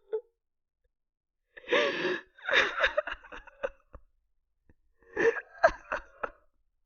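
Horror sound effect of a human voice in three short breathy, stuttering bursts, like wheezing gasps, separated by silence.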